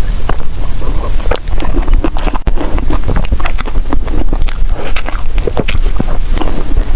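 Close-miked chewing of soft dessert: a quick, irregular run of wet mouth clicks and smacks over a steady low rumble of microphone noise.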